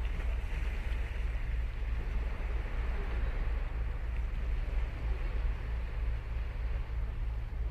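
Ocean surf washing onto a sandy beach, a steady noisy wash over a deep low rumble.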